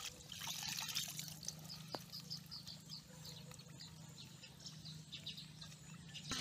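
A small bird chirping, a quick run of short high notes about four a second for the first few seconds, over faint water trickling as muddy water is poured from a bowl into a plastic basket.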